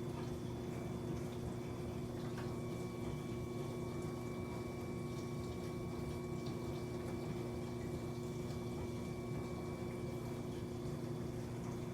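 A steady low hum made of two held tones, over a faint even hiss.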